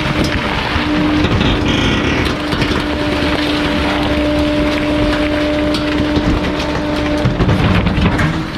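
Bulky-item garbage truck's hydraulic compactor crushing a load: a steady hum with crackling and snapping throughout.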